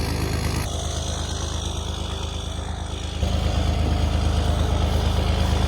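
Old Dodge plow truck's engine idling as it warms up after a cold start, a steady low running sound that gets louder about three seconds in.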